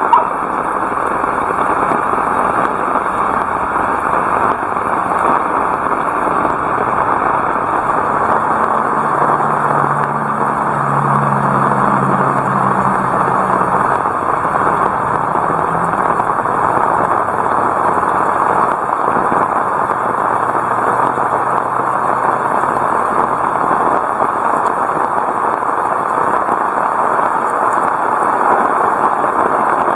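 Heavy rain pouring steadily, with a faint low hum from about 8 to 16 seconds in and a short click at the very start.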